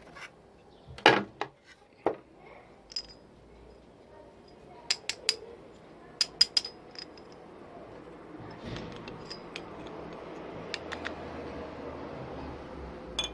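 A series of sharp clicks and light clinks of small hard objects being handled, some in quick runs of two or three. A steady rushing noise comes up about eight seconds in.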